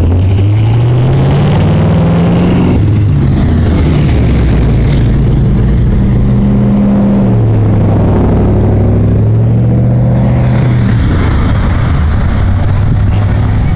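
A car engine accelerating, its pitch climbing, dropping back and climbing again a few times, over loud street noise.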